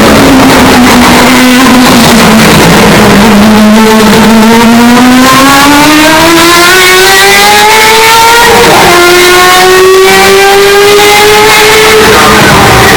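Hyundai Elantra N's turbocharged four-cylinder engine: the note sags, then climbs steadily under acceleration. A gear change about nine seconds in drops the pitch sharply before it climbs again. The sound is heavily amplified and distorted.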